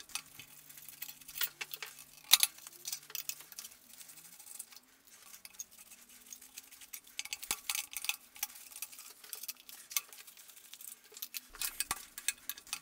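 Scattered metal clicks and clinks of hand tools and small fittings as lines are undone and taken off a diesel engine during teardown.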